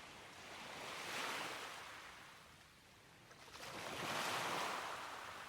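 Waves washing onto a beach: two swells of surf hiss, one about a second in and a louder one near four seconds, each rising and then falling away.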